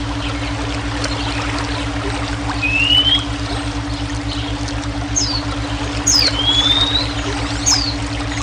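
Flowing water running steadily under a constant low humming brainwave tone. Bird whistles cut through: a rising whistle about three seconds in, then several short falling chirps and another rising whistle in the second half.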